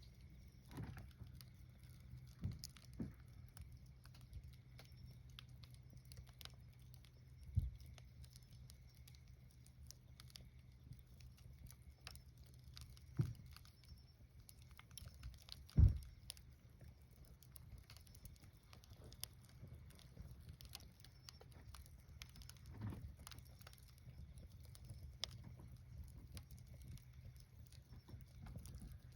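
Wood fire crackling: scattered small sharp pops and ticks, with a few louder low thumps, the loudest about sixteen seconds in.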